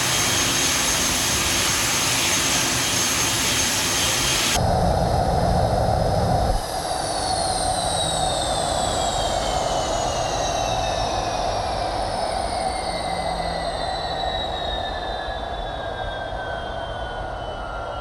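Spey 205 turbofan jet engine running loud with a high steady whine, then shut down about four and a half seconds in: the roar drops away suddenly and the turbine whine winds down in falling pitch as the engine spools down. The reheat (afterburner) has not lit on this run.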